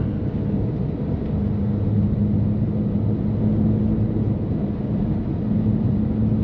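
BMW F80 M3's twin-turbo straight-six running at a steady highway cruise, a low even drone through a catless, open-valved exhaust, with road and tyre noise beneath it.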